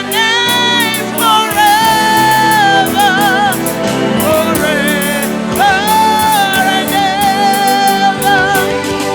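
Gospel song: a voice singing long held notes with vibrato over steady instrumental accompaniment.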